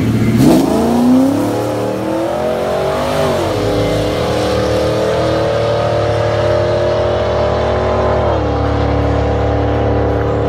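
2000 Camaro SS's 5.7-litre LS1 V8 with long-tube headers at full throttle on a drag-strip pass. The engine note climbs steeply for about three seconds, then drops as the automatic transmission upshifts. It climbs again more slowly and drops at a second upshift about eight seconds in.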